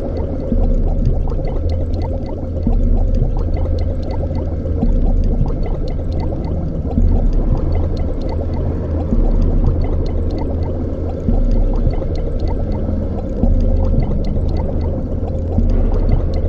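Liquid bubbling in a tank over a deep, steady machine hum that swells about every two seconds.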